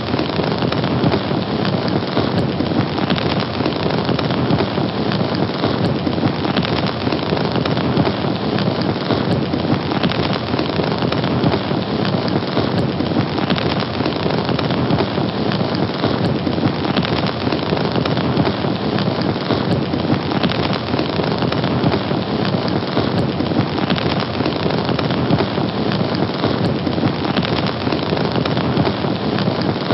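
Fire burning steadily: a dense, continuous crackle and rush of flames, without pause or change.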